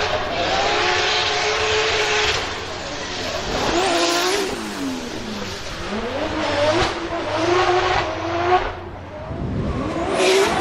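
Drift car engine revving hard, with the pitch holding high, dropping and climbing back up several times as the throttle is worked. The biggest dip comes about nine seconds in, before it revs up again.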